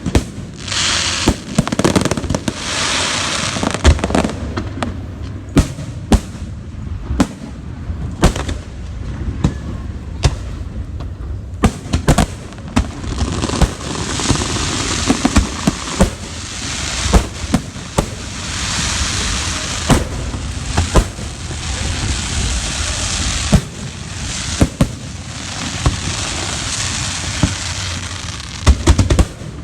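A fireworks display with aerial shells going off in sharp booms one after another. Long stretches of dense crackling hiss fill the gaps between bangs, and a quick cluster of the loudest bangs comes near the end.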